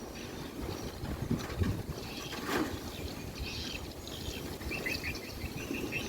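Wind rumbling, with faint high chirping insects that become more regular near the end, and one brief sharp snap about two and a half seconds in.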